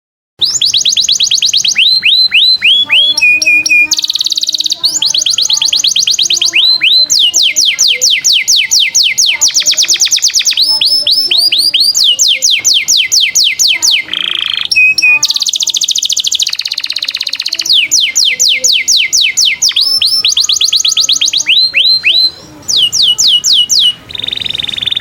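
Mixed songbird tutoring (masteran) recording of canary, cililin and lovebird song, starting about half a second in after silence. Loud, fast, high-pitched trills of quickly repeated sweeping notes, changing phrase every second or two, with a few brief breaks.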